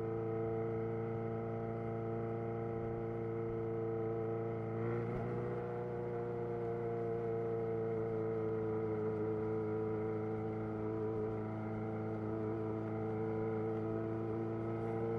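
2011 Yamaha XJ6's inline-four engine through a Black Widow full aftermarket exhaust, running at a steady engine speed with only slight rises and falls in pitch.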